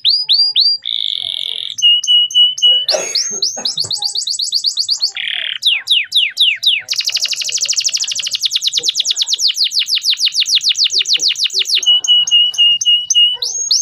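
Male domestic canary singing a continuous, fast song. Rapid runs of repeated down-slurred notes alternate with short flat whistled notes and a long, very fast trill in the middle.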